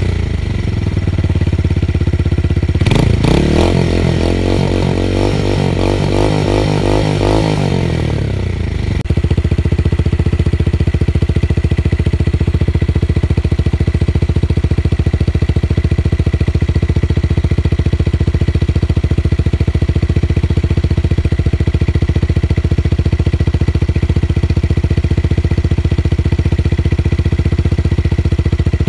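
Tuned motorcycle engine with a deep, bassy exhaust, blipped once about three seconds in and winding back down over several seconds, then settling into a steady idle from about nine seconds on.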